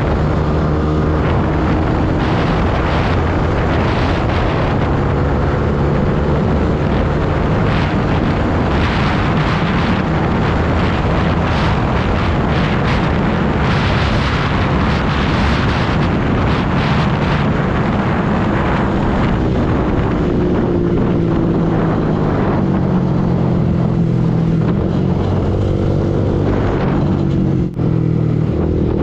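Yamaha R15 V2 motorcycle's 150 cc single-cylinder engine running on the move, with wind rushing over the microphone. The engine pitch shifts up and down with the throttle, and there is a brief break in the sound near the end.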